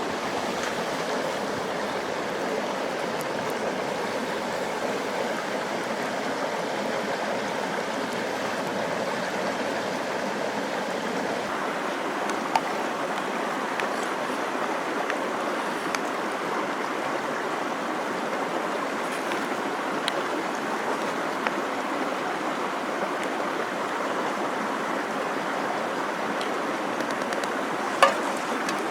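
Mountain stream rushing steadily and loudly, with a couple of sharp clicks, one about twelve seconds in and one near the end.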